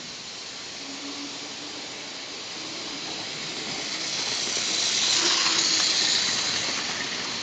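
OO-gauge model train running past close by: a steady whirring hiss that swells about four seconds in, peaks, and eases off near the end.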